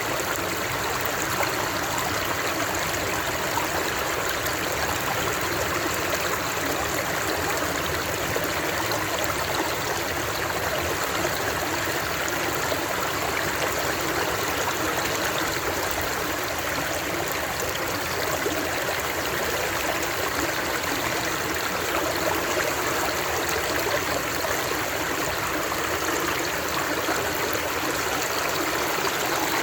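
Flowing stream water, a steady rush and babble that does not change.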